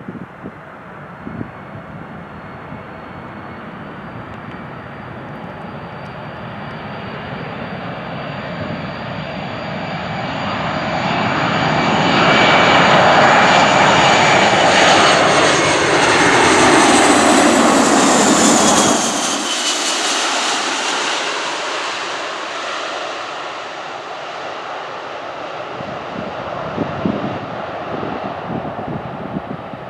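Large jet airliner flying low overhead on its landing approach: the jet noise builds steadily, is loudest from about twelve to nineteen seconds in, then fades as it passes, with the engines' high whine sliding down in pitch as it goes by.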